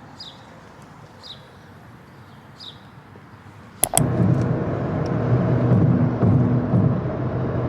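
A few quiet seconds with faint short high chirps about once a second. Then a sharp click, and the steady road and engine noise of a car's cabin while it is being driven.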